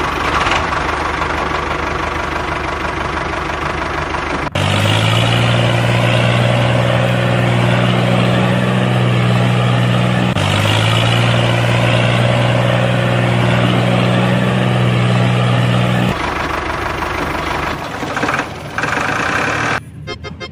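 A motor running steadily, an engine-like drone. A deeper steady hum joins about four and a half seconds in, with a brief break near the middle, and drops out about four seconds before the end.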